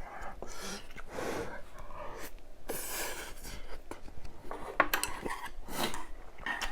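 Tableware and eating noises: utensils clicking against dishes, with a few short rustling, crinkly noises.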